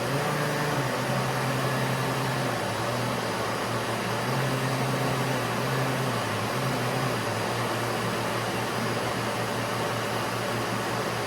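SurfPrep sander running on a cabinet door, with dust extraction drawing through it from a Festool vacuum: a steady whir with a low hum that shifts in pitch now and then.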